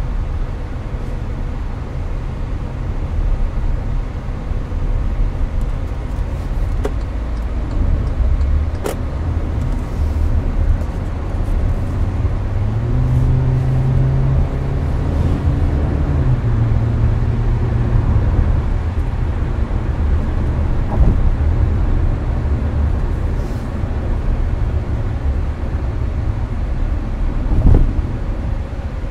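Hyundai Avante cruising on an expressway, heard from inside the cabin: a steady low road and engine rumble with air-conditioner noise over it. In the middle a low engine hum comes up and holds for a few seconds, and a few short knocks come through, the loudest near the end.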